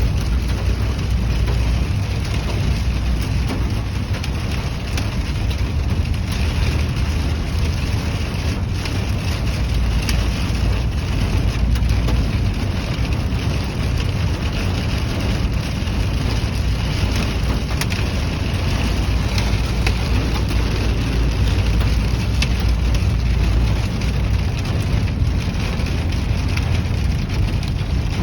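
Heavy rain mixed with small hail drumming on a car roof, heard from inside the car as a steady wash with scattered faint ticks, over a low rumble.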